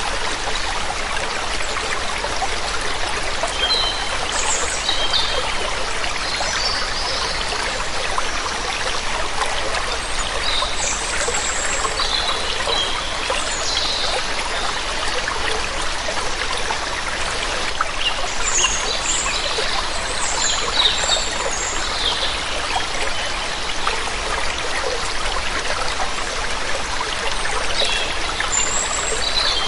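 Waterfall water running steadily, with birds chirping now and then in short high calls.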